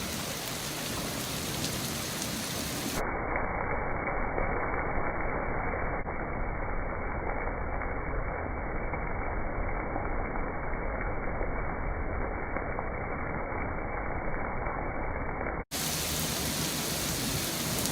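Steady rain falling during a thunderstorm, an even hiss with no distinct thunderclaps; for most of the middle it sounds duller, its highs cut off.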